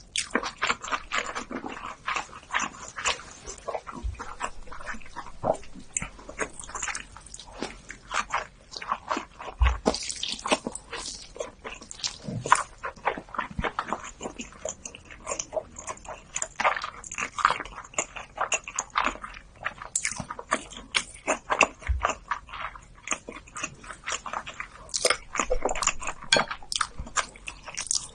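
Close-miked eating sounds: wet chewing, lip smacks and mouth clicks, coming in irregular bursts, as raw salmon sushi and cold buckwheat noodles are eaten.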